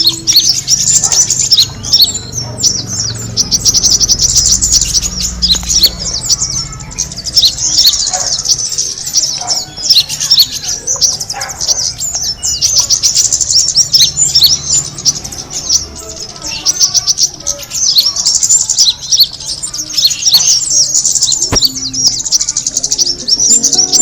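Small birds chirping and twittering rapidly and without a break, a dense run of high-pitched calls of the kind used as a bird-luring (pikat) call.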